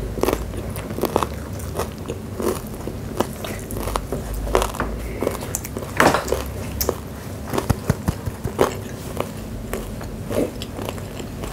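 People chewing crispy deep-fried chicken gizzards, with irregular crunches through it.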